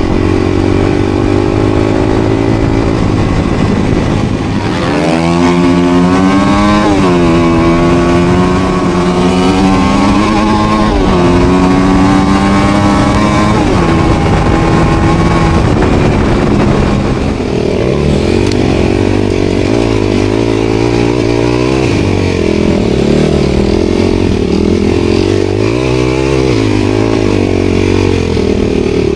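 Dirt bike engine being ridden, its pitch climbing and dropping again and again as the throttle is worked and gears change. It settles into a lower, wavering note for the second half.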